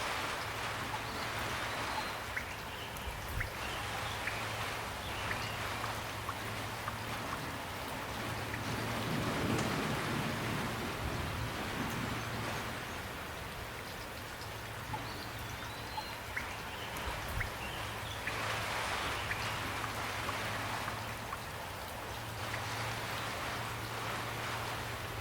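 Steady rain falling, an even hiss with many separate drops ticking close by, swelling a little now and then, over a low steady hum.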